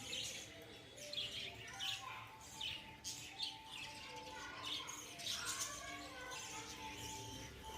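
A colony of lovebirds chirping, many short high chirps overlapping with no break.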